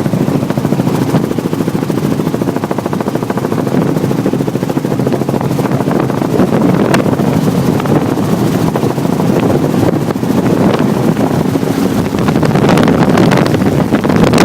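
Helicopter heard from on board in flight: steady engine and rotor noise with a fast, even pulse, and wind buffeting the microphone.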